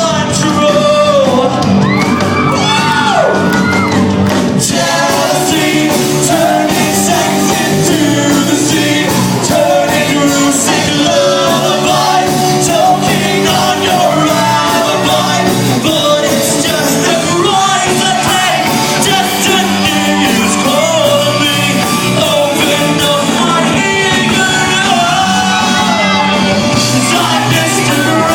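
Live rock band playing a song with a lead singer, with shouts and whoops over the music.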